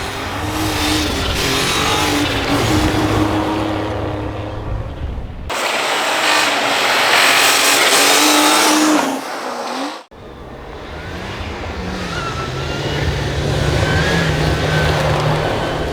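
Rally cars' engines running hard on a snow stage, with the pitch rising and falling as they accelerate and lift. Abrupt cuts about five and ten seconds in switch to other cars. In the middle stretch a loud hiss sits over a higher engine note, which drops off near its end.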